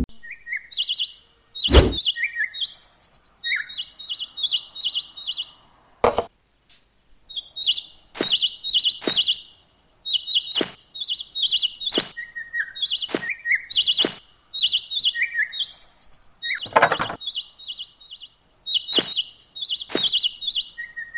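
Small songbirds chirping in quick repeated series of short high notes, with a number of sharp knocks scattered among them.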